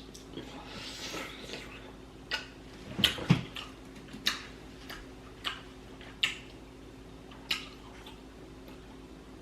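Mouth sounds of eating seafood: scattered wet clicks and smacks, about one a second, with a faint steady hum underneath.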